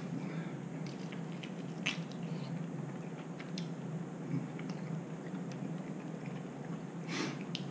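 A person chewing and biting into smoked chicken wings, pulling the meat apart by hand, with a few scattered small clicks over a low steady hum.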